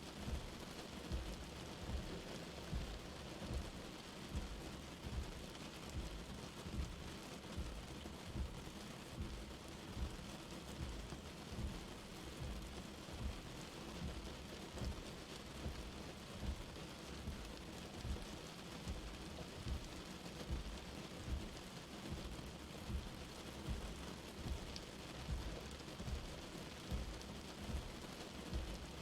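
Light rain falling in a steady, even hiss, with dull low thuds of drops landing about one or two times a second throughout.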